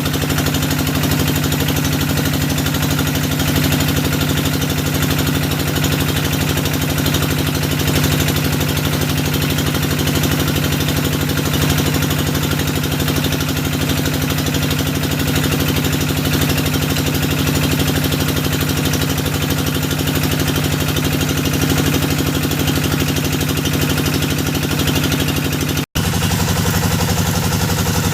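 Engine of a hydraulic well-drilling rig running steadily at a constant speed. It drops out for an instant near the end and comes back at a slightly different pitch.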